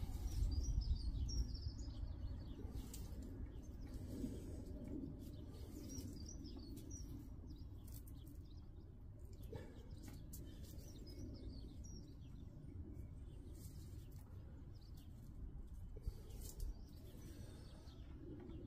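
Small songbirds chirping intermittently in short bursts of twittering, over a steady low rumble.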